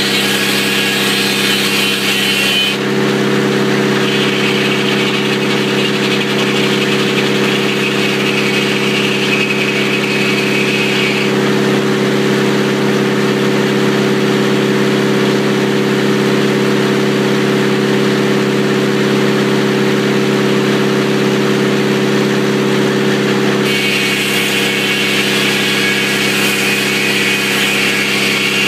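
Old sawmill running steadily while cutting a telephone pole, its engine giving a constant low hum. A higher, hissing whine over the engine comes and goes: it drops out briefly a few seconds in, again for a long stretch in the middle, and returns near the end.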